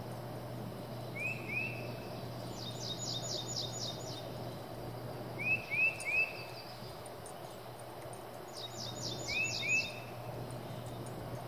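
A songbird singing over a steady low outdoor hum: short rising whistled notes in twos and threes, together with a quick run of higher notes, repeated three times.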